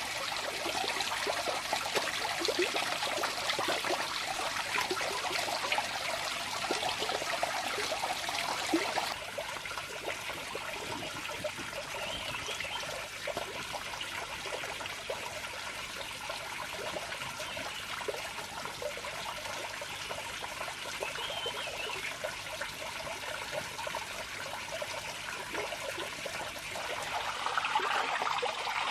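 Running water, trickling steadily, growing quieter and duller about nine seconds in and louder again near the end.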